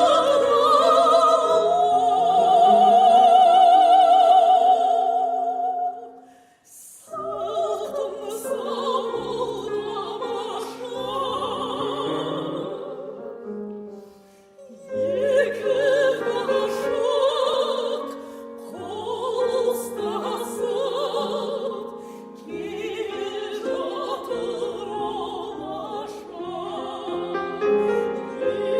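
Operatic solo voice singing a classical song with piano accompaniment. A long held note with vibrato swells in the first few seconds and breaks off briefly before the singing goes on.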